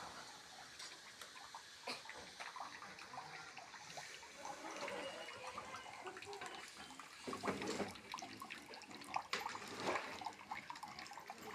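Wet splashing and dripping with scattered small knocks and clicks, rising in a few louder bursts about two-thirds of the way through and again near the end.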